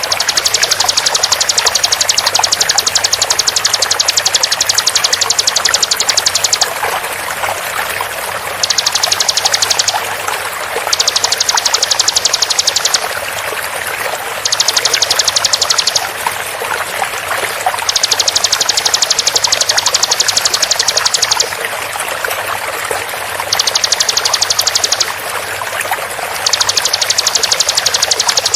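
Bar-winged prinia (ciblek) song: very fast, tightly spaced high trills in seven bouts of one and a half to six seconds, over a steady sound of running water.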